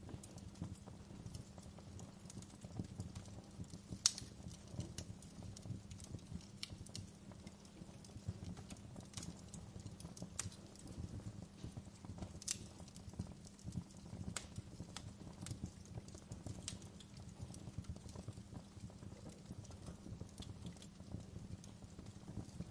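Wood fire burning in a fireplace: a soft low rumble of flames with irregular crackles and pops, one sharp snap about four seconds in.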